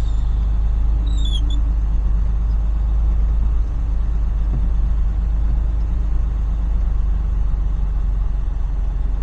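Tractor-trailer's diesel engine running steadily with a deep low rumble as the truck is set up to back in to a loading dock.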